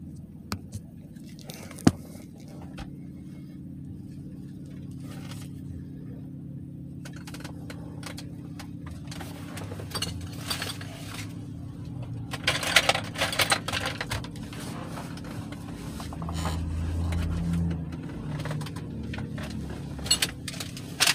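Steady low hum of an idling vehicle engine, with scattered clicks and knocks and louder bursts of noise about twelve seconds in and near the end.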